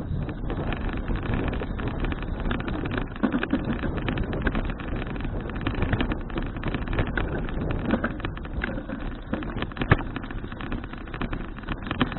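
Wind rushing and rumbling over an action camera's microphone on a moving bicycle, with scattered clicks and knocks, the sharpest about ten seconds in.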